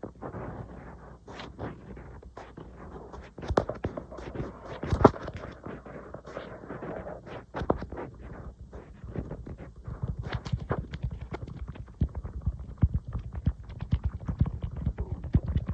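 Fingers tapping and scratching on an iPad, close to the microphone: a steady stream of quick, irregular taps over a soft scratching, with the taps coming faster and denser in the last few seconds.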